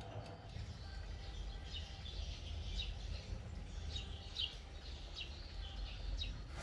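Small birds chirping: about a dozen short, high, falling chirps, scattered irregularly, over a steady low outdoor rumble.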